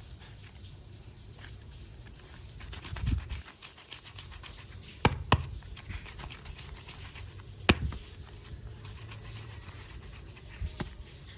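Hands handling small plastic clay containers: a dull bump about three seconds in, then sharp plastic clicks, two close together about five seconds in and a single one near eight seconds, with soft rustling and light ticks between.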